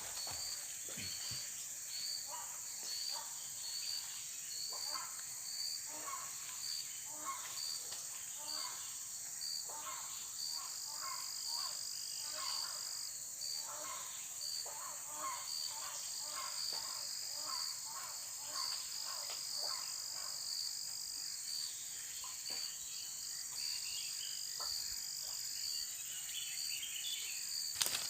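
Forest insect chorus: a steady high buzz with a pulsing, repeating high chirp, and scattered short faint calls underneath.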